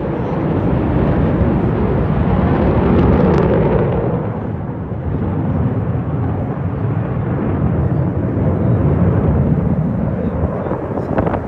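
Jet aircraft flying past, a loud, deep rumble that swells twice.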